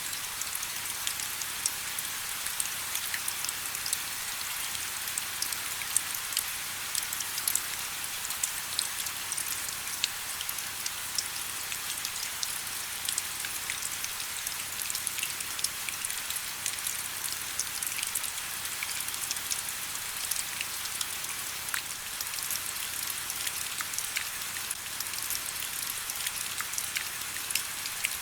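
Steady rain: an even, high hiss dotted with many small, sharp drop ticks, with almost no low rumble.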